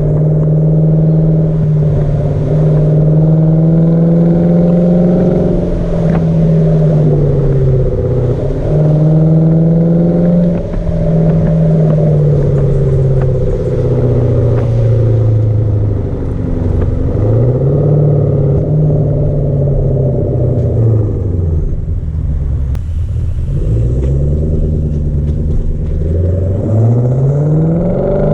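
Hyundai Genesis sedan's V8 running through a muffler-delete exhaust while driving. The engine note rises and falls as the car pulls through the gears and eases off, with several quick climbs and drops in pitch in the second half.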